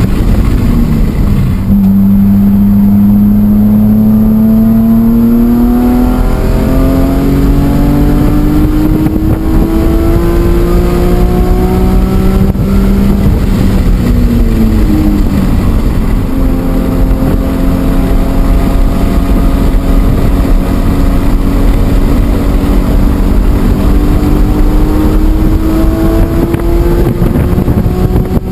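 BMW E46 M3's S54 3.2-litre inline-six under hard acceleration on track, revs climbing steadily. The pitch drops sharply at an upshift about six seconds in, then climbs again. It falls away between about thirteen and sixteen seconds as the car slows, then climbs in one long pull.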